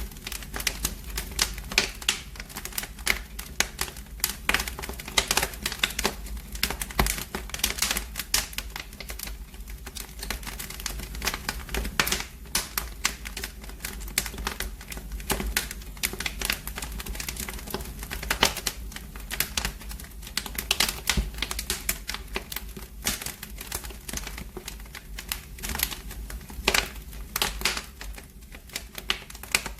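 Fire in a fireplace crackling: an irregular run of sharp snaps and pops, several a second, over a low steady rumble.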